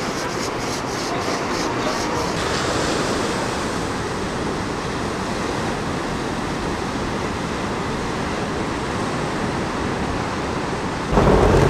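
Steady rushing noise of water and wind on an open boat, with a louder low boat-engine hum coming in abruptly near the end.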